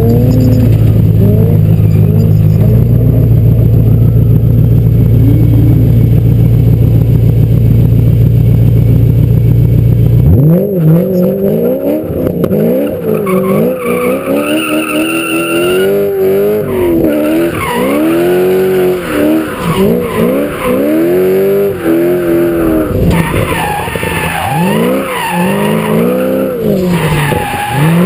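BMW drift car's engine holding a steady drone for about ten seconds, then revving up and down again and again as the car slides, with tyres skidding.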